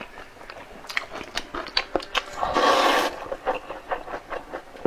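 A person chewing and eating, with many small wet mouth clicks, and one brief louder rushing sound about two and a half seconds in.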